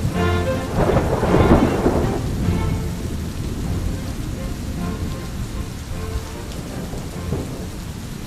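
A thunderclap about a second in, rolling into a low rumble over steady, heavy rain.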